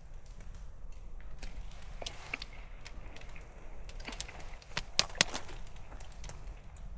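Campfire crackling, with irregular sharp snaps and pops and two louder cracks about five seconds in.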